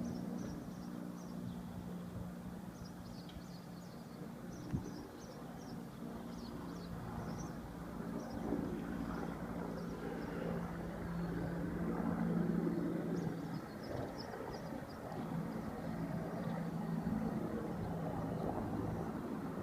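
Agusta-Bell AB 412 helicopter passing over, a steady low drone with a few held tones that grows a little louder about halfway through. Birds chirp faintly in the background.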